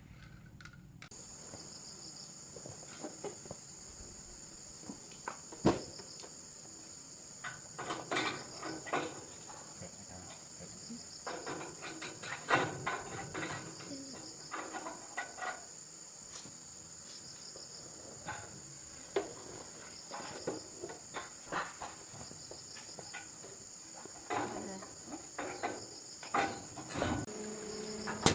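Steady high-pitched insect chirring that starts about a second in, with scattered clinks and knocks throughout.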